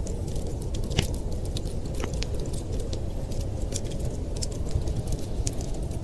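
A wood fire crackling, with frequent small ticks and sharp pops, the loudest about a second in and another near two seconds, over a steady low rumble.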